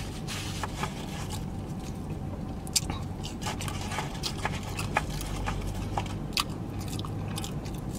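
Close-miked chewing of a burger and fries, with scattered wet mouth clicks and smacks.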